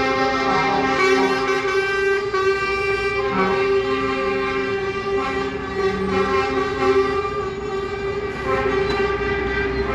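Truck air horns sounding together, one note held throughout while other notes start and stop beneath it, like a chorus of horns.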